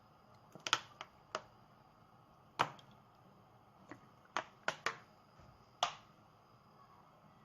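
A run of about ten sharp, irregular clicks and knocks, typical of kitchen utensils and dishes being handled during food preparation.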